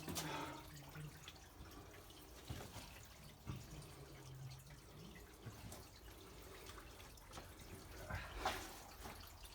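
Water dripping and trickling in a flooded mine tunnel, small scattered drips over a faint wash of water, with one louder burst of sound near the end.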